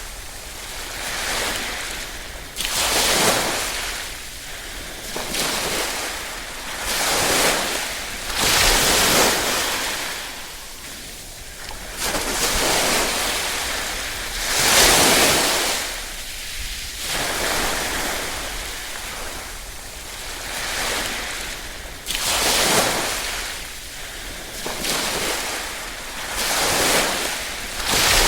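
Small ripple waves lapping and washing onto a shore, each gentle surge swelling and falling away every two to three seconds in a steady, unhurried rhythm.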